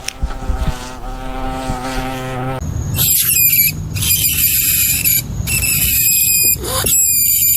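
A low, drawn-out animal call, then loud, high-pitched squealing in several long stretches with short breaks.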